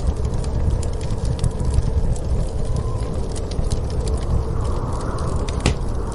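Wood fire crackling in a fireplace, with scattered small pops and one sharper crack near the end, over a steady low rumble of snowstorm wind.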